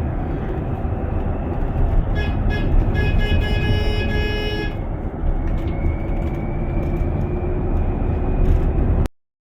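Steady heavy rumble of a moving vehicle, with a horn-like tone sounding about two seconds in, first in short stutters and then held for about two seconds. The sound cuts off abruptly near the end.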